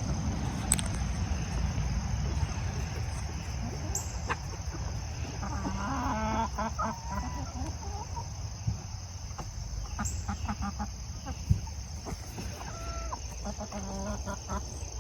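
Chickens clucking in bursts, about halfway through and again near the end, over a low steady rumble.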